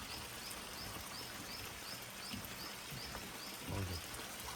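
Rainforest ambience with a small creature calling a steady series of short rising chirps, about three a second, which stop shortly before the end; a dull low bump near the end.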